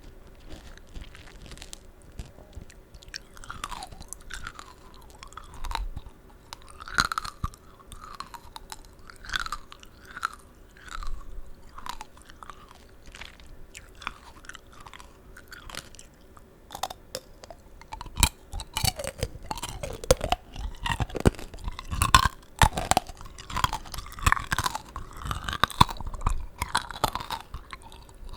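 Close-miked chewing of tanghulu, strawberries and green grapes in a hard sugar-candy shell. The candy coating cracks and crunches between the teeth amid wet, juicy chewing of the fruit. The crunches grow louder and come thicker about two-thirds of the way through.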